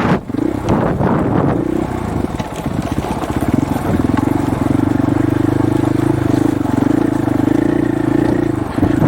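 Dirt bike engine running at a steady, even pitch for several seconds, with wind buffeting on the microphone at the start.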